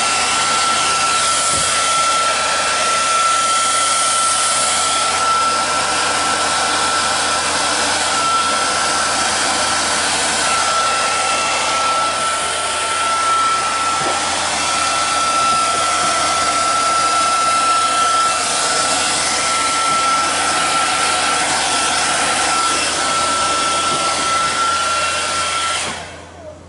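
Handheld hair dryer running steadily, a rush of air with a steady high whine, blowing wet acrylic paint across the canvas; it is switched off near the end.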